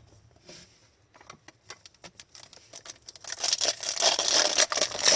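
A few light clicks, then from about three seconds in loud crinkling and tearing of a foil hockey card pack wrapper being torn open.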